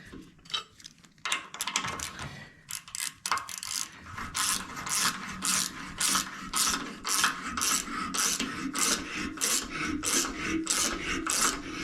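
Hand thread tap being turned in the levelling-screw holes of a lathe base, chasing out dirty, damaged threads: a rasping metal scrape repeated about two to three times a second. This follows a few seconds of scattered clicks and scrapes.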